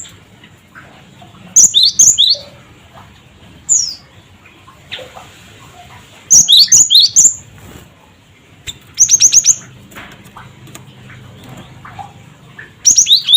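Cinereous tit (gelatik batu) calling in five short bursts of quick, high, downward-sliding notes, with pauses of a second or more between bursts.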